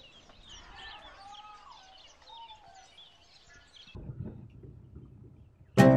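Faint birds chirping, a scatter of short rising and falling calls. After about four seconds the birdsong gives way to a soft low rumble, and just before the end plucked-string music starts loudly.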